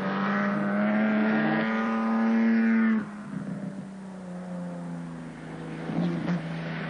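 Racing sports car engine accelerating, its note climbing and growing louder for about three seconds. It then cuts off abruptly to a quieter, lower engine note that runs on.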